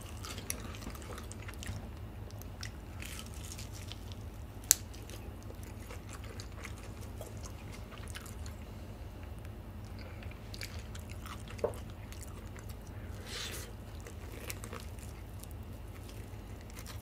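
Close-miked chewing and biting of a cheese-powder-coated fried chicken drumstick: soft crunches and small wet mouth clicks, with one sharp click about five seconds in, over a steady low hum.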